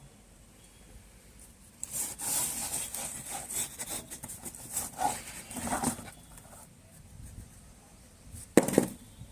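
Irregular scraping and rubbing for about four seconds, then a single loud knock near the end.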